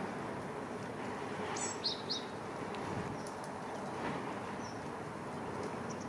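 A small bird gives a few short, high chirps, two close together about two seconds in and a faint one later, over steady background noise.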